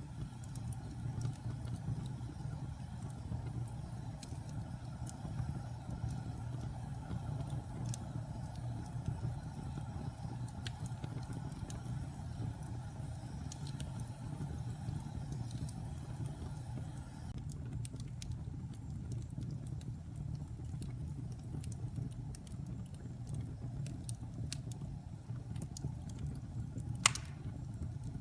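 Fire burning in a fireplace: a steady low rumble of flames with scattered small crackles, and one sharp pop near the end.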